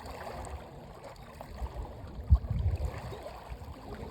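Water sloshing and splashing close to the microphone, with uneven low bumps and one sharp jolt a little past halfway.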